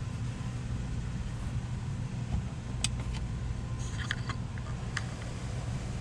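Travel trailer's air conditioner running with a steady low hum. A few light clicks and taps come through about halfway along and again near the end.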